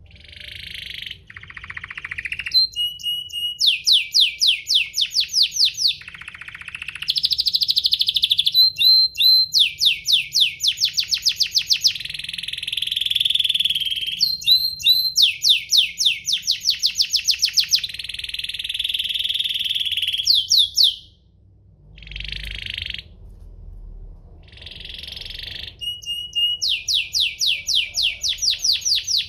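Domestic canary singing a long song: fast trills of rapidly repeated high notes alternating with sustained, rolling tones, with a brief pause a little past two-thirds of the way through.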